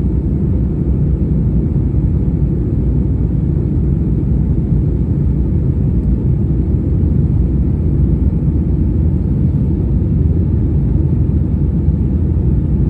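Steady low rumble of an airliner's engines, unchanging in level throughout.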